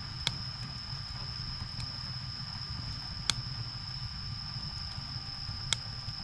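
Firewood burning with a low rumble of flames and three sharp crackling pops: one just after the start, one about halfway through, and one near the end. A steady high-pitched whine sits above the fire.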